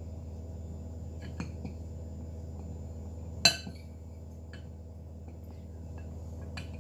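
Kitchen utensils and dishes clinking: a few light taps and one sharp, ringing clink about three and a half seconds in, over a steady low hum.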